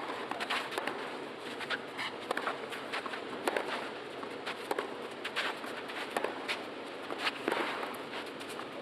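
Tennis court sound during play: a string of sharp, irregular clicks from the ball being struck by rackets and bouncing, with footsteps, over a steady background hiss.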